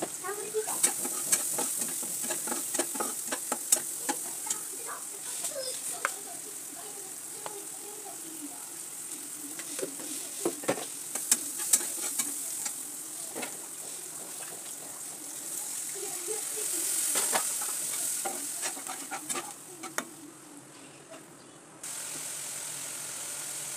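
Chopped tomatoes, onions and chillies sizzling as they fry in oil in a pan, with a spatula clicking and scraping against the pan as it stirs. The sizzle swells louder for a few seconds about two-thirds of the way through.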